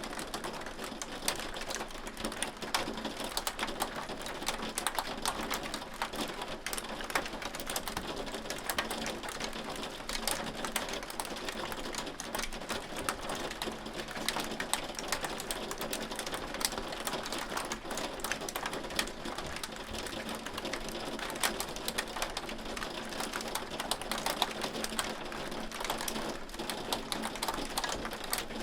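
Hailstones pelting a hard surface, a dense, steady clatter of rapid ticks with the odd louder hit.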